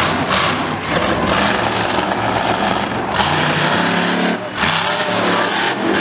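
Loud engine noise from a vehicle running hard, with a short dip about four and a half seconds in.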